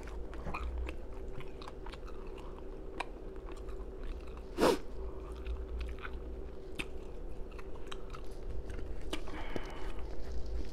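Close-miked chewing and lip-smacking on crispy fried whole fish and shrimp fried rice: many small wet mouth clicks, with one louder bite about halfway through.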